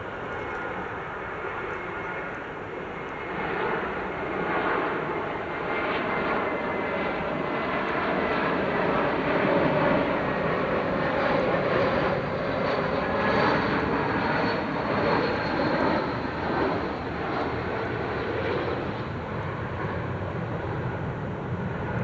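Jet airliner's engines passing: broad engine noise with a faint steady whine that swells over the first ten seconds or so, holds near its loudest for several seconds, then eases slightly toward the end.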